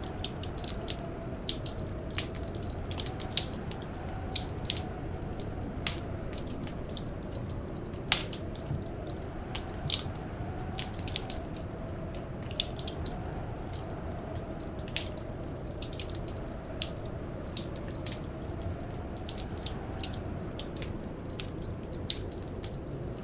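Wood fire crackling in a fireplace: irregular sharp pops and snaps, several a second, over a steady low rush. A faint, slowly wavering howl of blizzard wind runs underneath.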